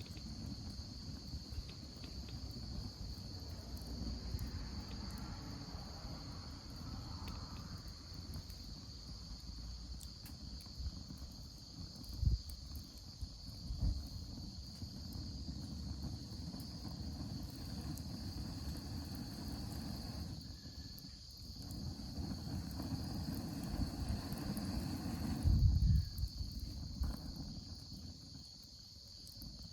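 Insects trilling steadily in one high, continuous tone, over a low, uneven rumble. There are a few dull thumps, about twelve and fourteen seconds in and again near twenty-six seconds.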